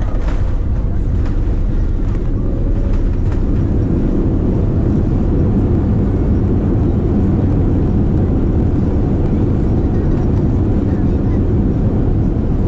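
Airliner cabin noise: a steady low rumble of the engines and airflow, heard from inside the passenger cabin.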